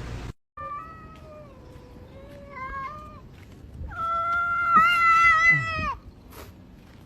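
A cat yowling: two long, drawn-out meows, the second one louder and falling in pitch as it ends.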